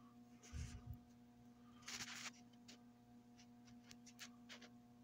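Near silence: room tone with a faint steady hum, a soft low thump about half a second in, a brief rustle about two seconds in, and a few faint clicks.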